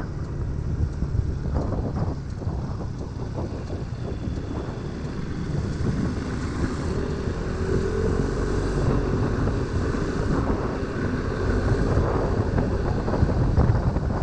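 Wind buffeting the microphone on a moving motorcycle, with the engine and road rumble running underneath. A faint engine note rises and then falls in the middle.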